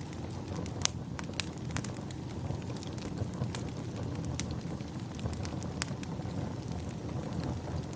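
Wood fire crackling: sharp pops and snaps at irregular intervals over a steady low rush.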